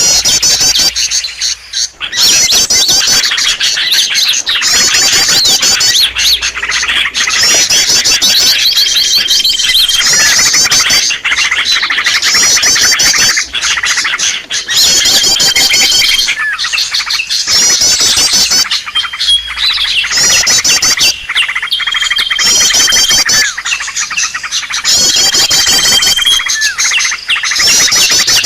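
Bird-trapping lure recording of small songbirds calling: a dense chatter of rapid, high trills in repeating bursts, with a short, steady whistle note coming back every few seconds.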